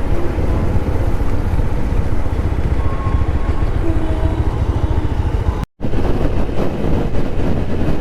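Motorcycle running at highway speed: a steady low rumble of engine, wind and road. The sound cuts out completely for a moment a little before six seconds in.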